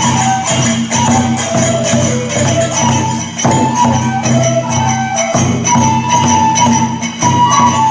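Kagura dance music: a taiko drum beating a steady rhythm with clashing hand cymbals, under a high flute melody that moves in held notes.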